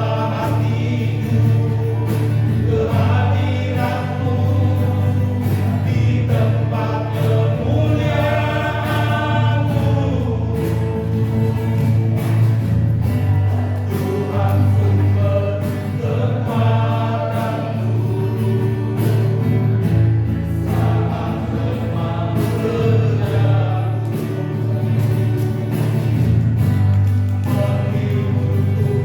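Choral singing with musical accompaniment, in a gospel style.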